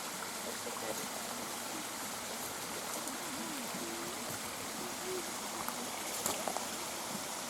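A small river flowing, a steady rushing of running water.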